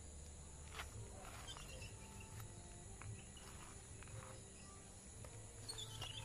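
Faint outdoor ambience: a steady high-pitched insect drone, with scattered light clicks and a few brief chirps.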